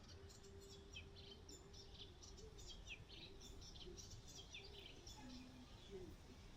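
Faint small-bird twittering: a rapid run of short high chirps, many dropping in pitch, over a low steady rumble.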